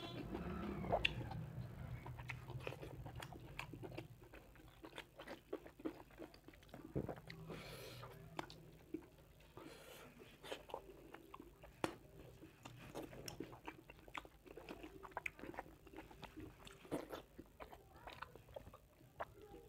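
Close-miked eating sounds: a man chewing mouthfuls of mutton curry and rice eaten by hand, with many short wet clicks and smacks of the mouth. Near the start, fingers mix rice and curry on a steel plate.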